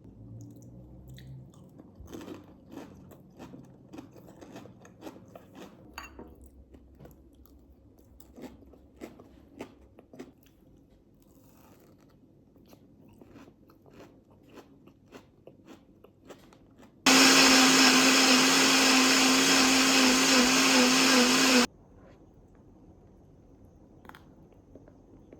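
Irregular clicks and crunching handling noises, then a small electric motor runs loudly and steadily with a low hum for about four and a half seconds and cuts off suddenly.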